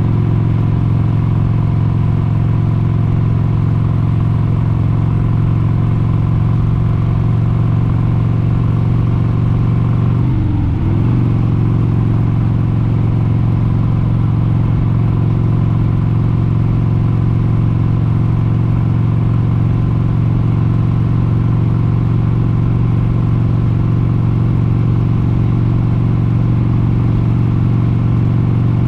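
1996 Harley-Davidson XLH883 Sportster's air-cooled 883 cc V-twin engine running at a steady cruising speed on the road. About ten seconds in, the engine speed dips briefly and comes straight back up.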